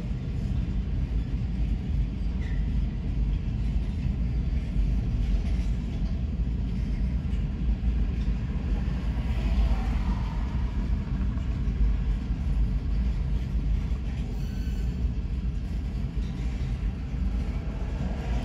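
Freight cars (covered hoppers, tank cars and boxcars) rolling past, their steel wheels making a steady rumble on the rails.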